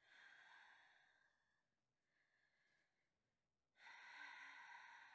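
A woman breathing slowly and deeply during a yoga hold: two faint, long breaths, the second starting about four seconds in.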